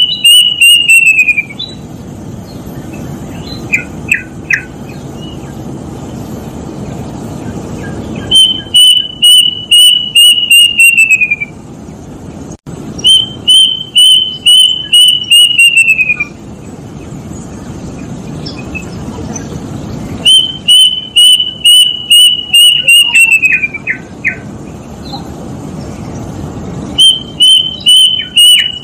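Plaintive cuckoo (kedasih) singing: a loud phrase of about eight to ten quick, clear whistled notes on one pitch that slide downward at the end. The phrase repeats four times after a tail of one at the start, every four to seven seconds, with a steady low hiss between phrases.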